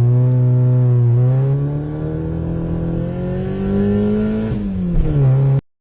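Car engine accelerating, its pitch climbing steadily for a few seconds, then dropping sharply and holding before the sound cuts off suddenly.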